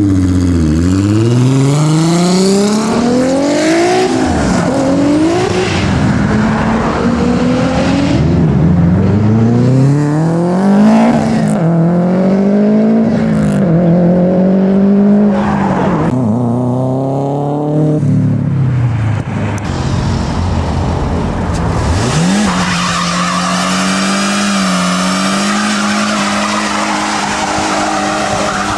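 A modified car's engine accelerating hard, its revs climbing and dropping again and again through gear changes, then held at a nearly steady pitch for the last several seconds.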